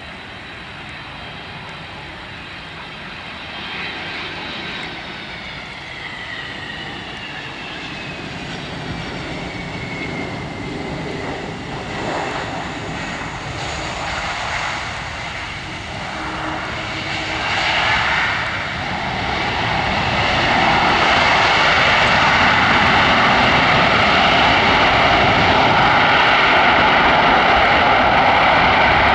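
Boeing 767-300 jet airliner landing: its engine whine falls in pitch as it passes, then the engine noise builds to a loud, steady rush from about twenty seconds in.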